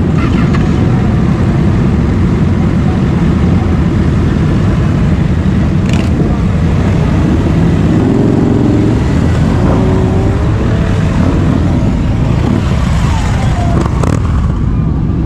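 Yamaha MT-09 SP three-cylinder engine with a TOCE full exhaust, running steadily while riding. Pitch glides come in around the middle.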